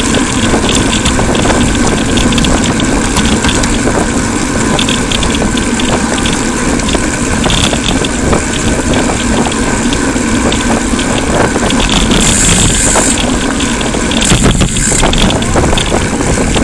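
Steady road and wind noise picked up while cycling along a road, with motor vehicle noise mixed in.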